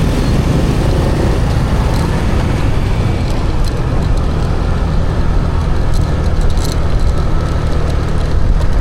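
Motorbike riding through city traffic: the engine running under steady, heavy wind and road noise on the camera's microphone, with a few faint clicks through the middle.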